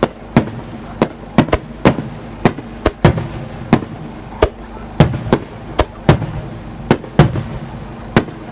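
Aerial firework shells bursting in quick succession, sharp bangs about two a second at uneven spacing, each with a short echoing tail.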